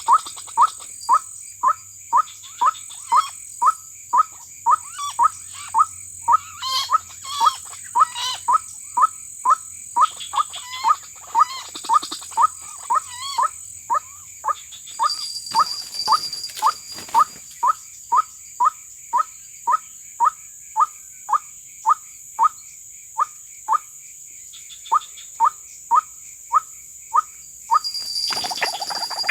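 Short notes repeated at an even pace, about one and a half a second: the calls of a white-breasted waterhen (ruak-ruak). A steady high insect buzz runs behind them, and the calls stop shortly before the end.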